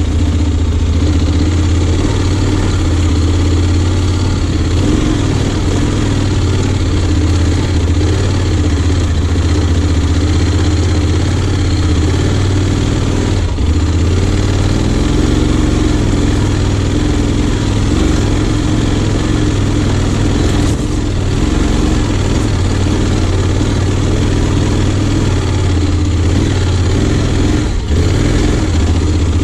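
2020 Honda X-ADV 750's parallel-twin engine running steadily under a broad rushing noise, with brief dips in loudness a few times.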